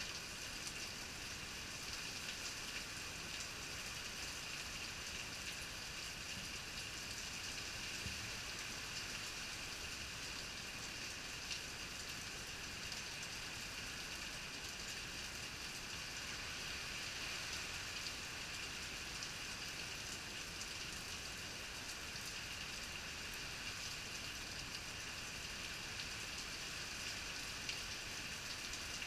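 Steady heavy rain from an afternoon thunderstorm falling and pattering on surfaces, an even hiss with occasional sharper drop ticks.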